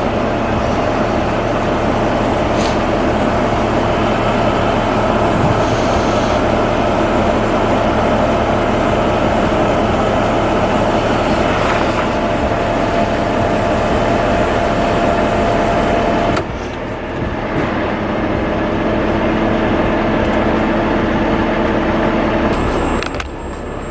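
Heavy diesel truck engine idling steadily, with a steady tone over its hum. The sound changes abruptly about two-thirds of the way through and again near the end.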